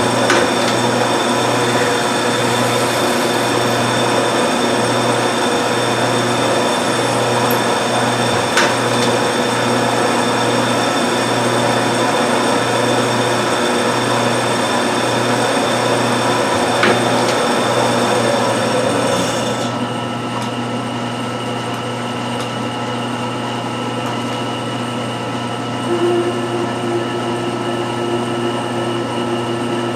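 1952 Wade 7 turret lathe running: a steady machine hum made of many tones, with a low throb that pulses about once a second and a few sharp clicks. About twenty seconds in the higher part of the sound drops away and the machine runs on more quietly, with a new steady tone joining near the end.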